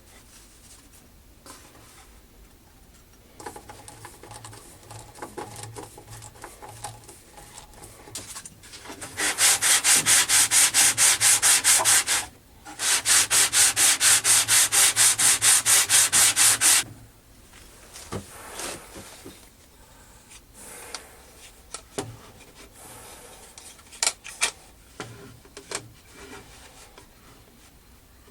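Fast, even abrasive rubbing strokes, about five a second, in two bouts of roughly three and four seconds with a short break between. Quieter scraping and a few sharp knocks come before and after.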